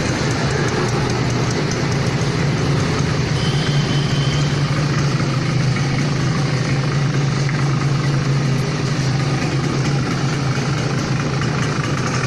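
Suzuki Samurai two-stroke single-cylinder motorcycle engine idling steadily, its exhaust note holding an even pitch throughout.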